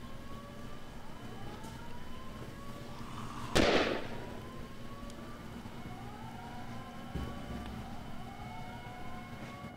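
Sirens wailing in repeated rising tones over a low steady hum. About three and a half seconds in, a sudden loud bang rings out and fades, with a duller thump a few seconds later.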